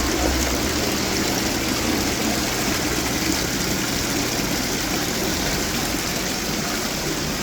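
Display water fountains splashing and trickling steadily, with a low hum underneath that is strongest near the start.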